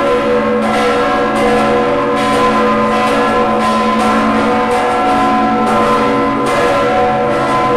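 Church bells of the Basilica of San Nicola pealing: several bells struck over and over in quick, uneven succession, their ringing overlapping without a break. The peal marks noon.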